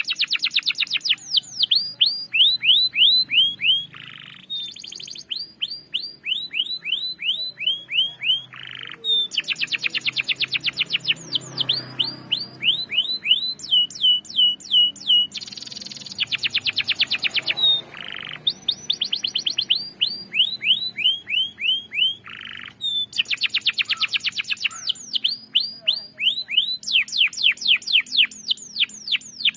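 Domestic canary singing continuously in long rolls. Fast dense trills alternate with runs of high down-slurred notes, about three a second.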